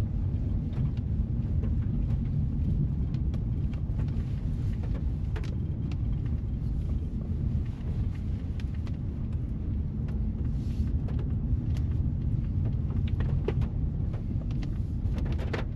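Steady low rumble of a car driving, with scattered sharp ticks over it.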